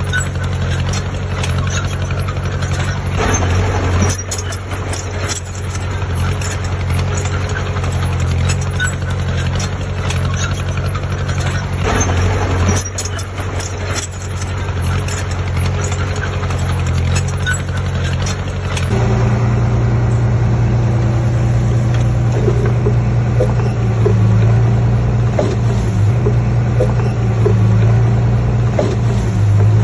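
Heavy diesel engine of earthmoving machinery running steadily, with clanking and rattling over it for the first two-thirds. About two-thirds in, the sound changes abruptly to a louder, steadier engine note.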